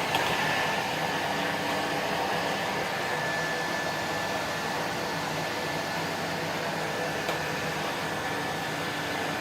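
Vacuum cleaner running steadily: a constant rush of air with a thin high whine from its motor.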